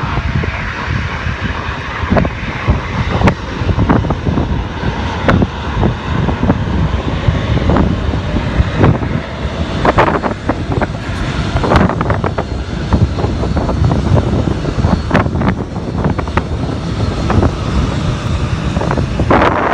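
Boeing 747's four jet engines at takeoff power: a loud, steady rumble shot through with ragged crackling.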